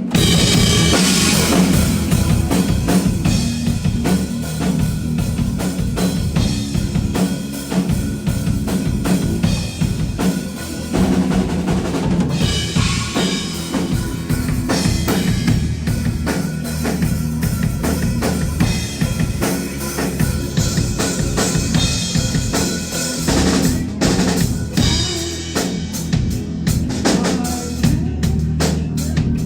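Live rock band playing loudly, with the drum kit to the fore: bass drum, snare and cymbals keeping a steady beat.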